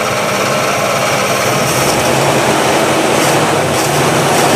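1962 Chevrolet engine running steadily as it warms up, rising a little in the first second and then holding even. It is running smoothly.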